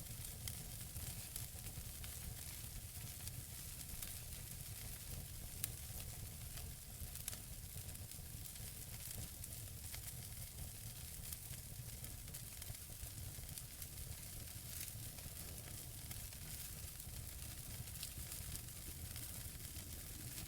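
Wood fire burning in a fireplace: a steady hiss over a low rumble, with frequent small crackles and pops from the burning logs and a few sharper ones scattered through.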